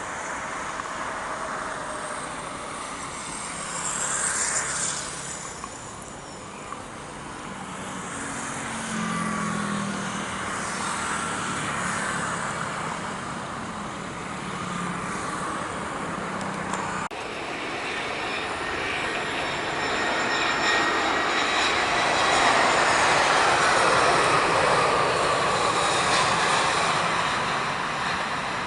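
Jet airliner engines running with a steady roar and whining tones that slide in pitch, growing louder in the second half.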